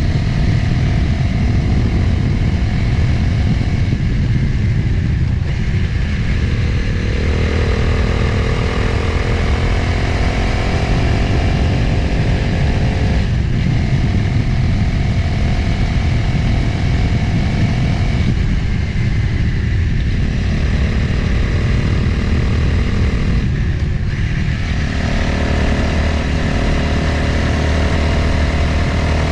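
Motorcycle engine running on the road with wind rushing over the microphone. The engine note climbs in pitch over stretches of several seconds, breaking off briefly a few times before picking up again.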